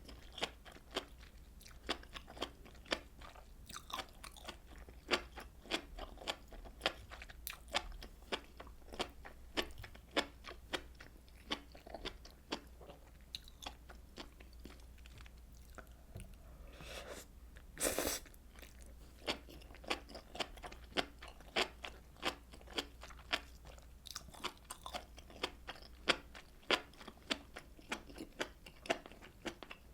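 Close-miked eating sounds of a person chewing fish cakes and rice cake from fish cake soup: a steady run of wet mouth clicks, a few a second. There is one longer, louder burst of noise about eighteen seconds in.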